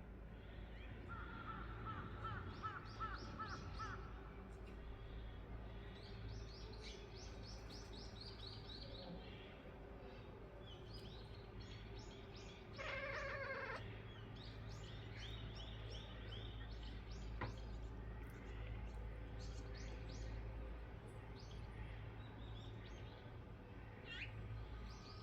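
Outdoor birds chirping and trilling in repeated series, with one louder, harsh call about 13 seconds in, over a steady low background hum.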